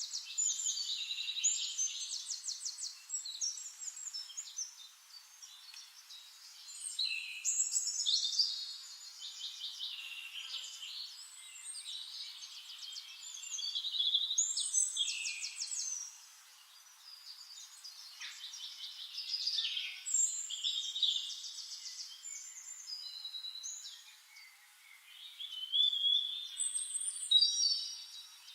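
Songbirds singing high-pitched phrases of rapid trills and warbles that come in bursts every few seconds.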